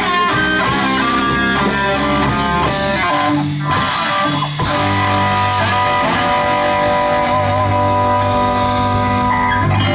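Live blues band playing a slow blues, with an electric guitar soloing in bent, held notes over bass and drums.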